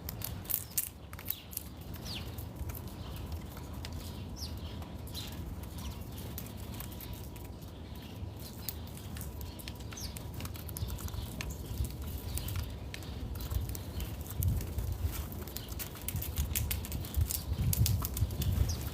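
Scattered clicks, taps and scrabbling from small animals moving at a backyard feeder, with a few short bird chirps. The tapping gets busier near the end.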